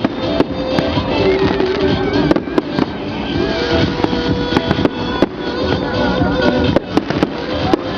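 Fireworks going off in a rapid, irregular series of sharp cracks and bangs, over music with a steady melody.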